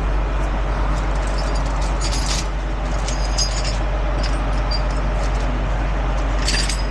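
Truck engine running at a steady idle, with a few light metallic clinks and jingles of chain or hardware, about two and three seconds in and again near the end.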